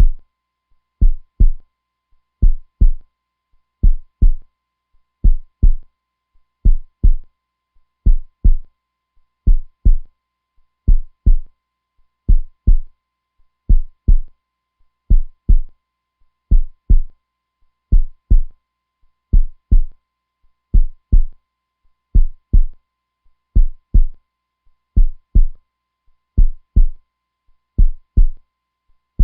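Heartbeat sound, a steady slow rhythm of deep double thumps (lub-dub) about once every 1.4 seconds.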